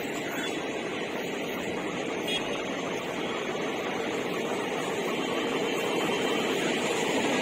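Passenger train coaches rolling past on the track, a steady rumble of wheels on rails that grows slowly louder near the end.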